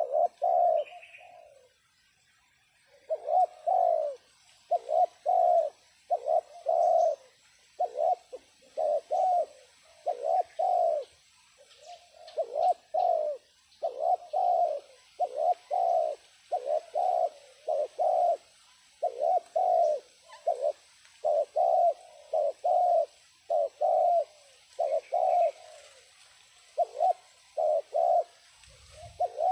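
Spotted dove cooing over and over: short low coos in clusters of two or three, repeating steadily with only brief pauses. It is the decoy call used to lure wild spotted doves down to the trap. A faint chirp from another bird is heard once or twice.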